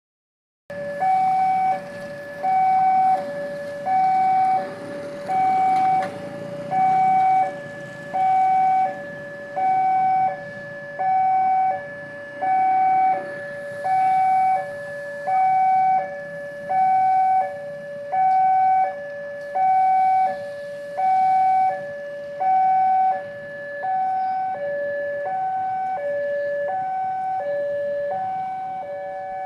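Railway level-crossing warning alarm sounding a two-tone signal. It starts about a second in and alternates steadily between a higher and a lower tone, each held for roughly 0.7 s. It signals that a train is approaching and the crossing barrier is down.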